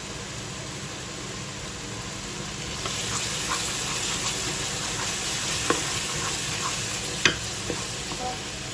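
Curry spice paste sizzling as it fries in a pan, growing louder about three seconds in. A few sharp clinks of a spatula against the pan come through, the loudest near the end.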